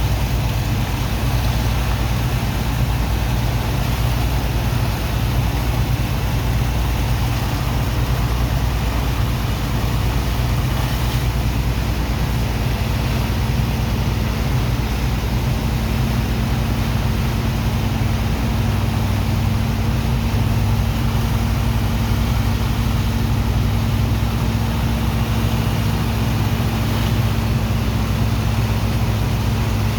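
Diesel-driven dredger sand pump running steadily during unloading: a deep engine drone under an even rushing hiss of water and sand. A steady higher hum joins about twelve seconds in.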